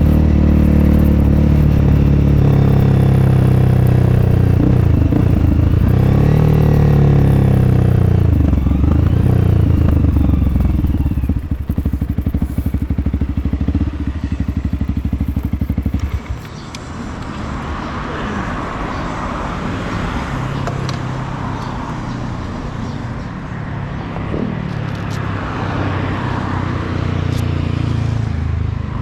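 Honda CRF300L single-cylinder four-stroke engine through an FMF Q4 exhaust, rising and falling in revs through the first several seconds, then settling to a steady, evenly pulsing idle. About 16 seconds in the engine sound stops abruptly, leaving quieter traffic noise.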